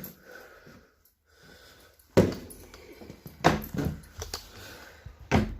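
A damp-swollen door sticking in its frame and being forced open, with a sudden loud knock about two seconds in and more knocks and scuffs after, echoing in a small bare room.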